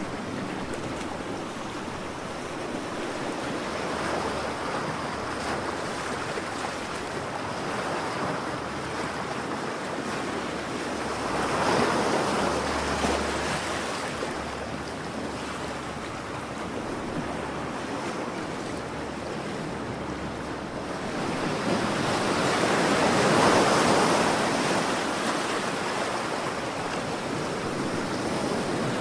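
Ocean waves washing onto a shore, a steady rush that swells and falls, with two bigger surges about halfway through and near the end.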